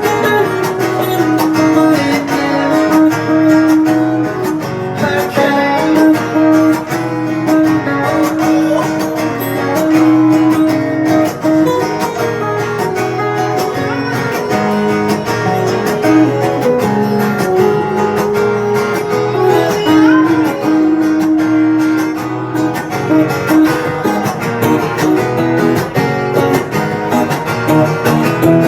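Acoustic guitar strummed and picked in an instrumental passage of a song, with no singing.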